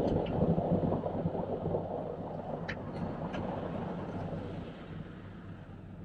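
Low engine rumble of trucks driving off, fading steadily as they move away, with two short high clicks about halfway through.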